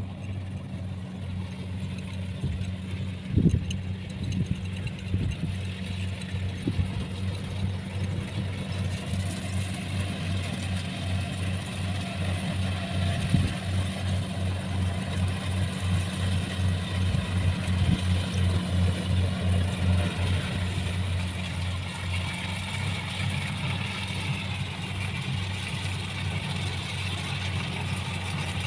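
Rice combine harvester's engine running steadily, with a sharp knock about three and a half seconds in.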